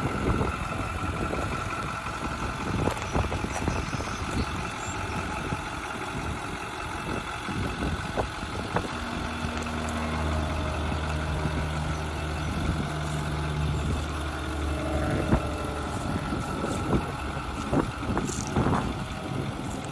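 Ford F-350 Super Duty service truck running, heard outdoors, with a low steady hum from about nine to fifteen seconds in and scattered clicks throughout.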